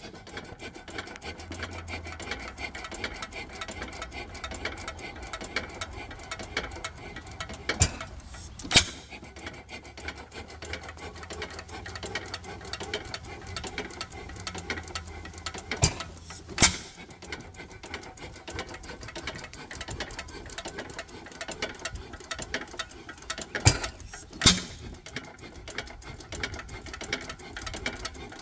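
A 1919 Domestic 3½ hp hit-and-miss engine running, its mechanism ticking rapidly while it coasts. About every eight seconds it fires in a pair of sharp bangs about a second apart, three times.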